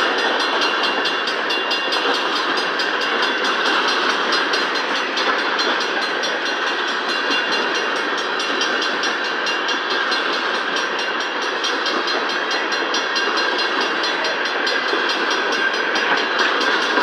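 Empty coal cars of a freight train rolling past: a steady, loud noise of steel wheels running on the rails.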